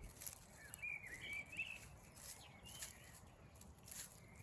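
Faint songbird chirping: a quick run of short, high, wavering chirps about a second in, over quiet outdoor background noise.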